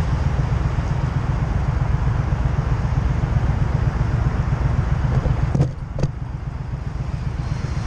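Wind and road noise from a moving vehicle, a heavy low rumble on the camera's microphone. About five and a half seconds in it drops off sharply with two short clicks, and what follows is quieter.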